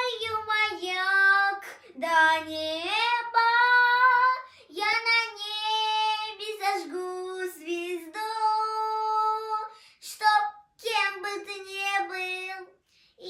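A girl singing a slow song alone, with long held high notes and gliding pitch, phrases broken by short breaths, in a small room.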